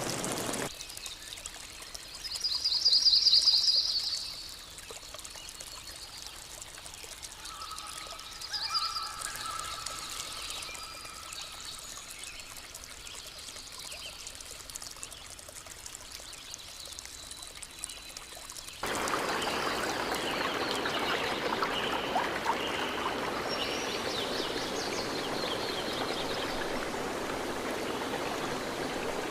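Forest ambience with a loud, rapid bird trill about 3 seconds in and softer bird calls and whistles a few seconds later. At about 19 seconds it switches abruptly to a stream rushing steadily.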